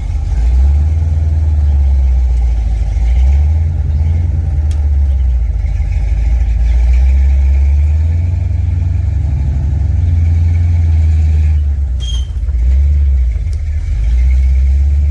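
First-generation Dodge Ram pickup's engine running while driving, a loud low drone that swells and eases with the throttle.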